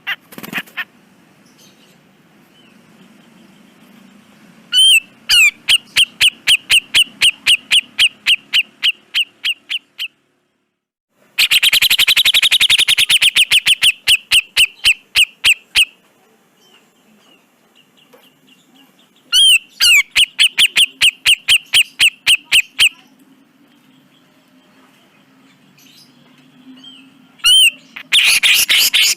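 Cucak jenggot (grey-cheeked bulbul) singing in bouts of rapid, repeated sharp notes, about four a second, each run lasting several seconds with short pauses between.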